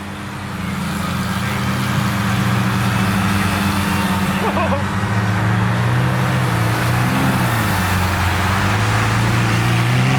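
Lamborghini Aventador V12 engines running at low speed, a steady low drone that builds over the first two seconds and then holds.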